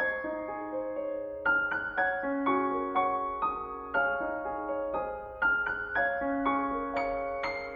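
Slow, gentle piano music: single notes and soft chords struck about every half second and left to ring out.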